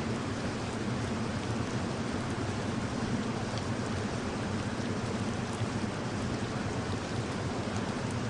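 Steady rain: an even, constant hiss with faint scattered drops.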